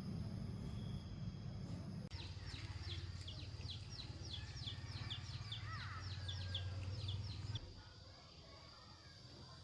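Birds chirping in a rapid series of short, downward-sliding notes over a low, steady hum; the hum and the chirping stop together about three-quarters of the way through.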